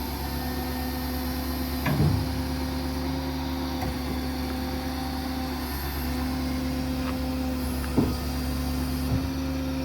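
Ford F-550's 6.7 Power Stroke diesel running with its hydraulic system engaged, a steady even hum. Short clunks about two seconds in and again near the end.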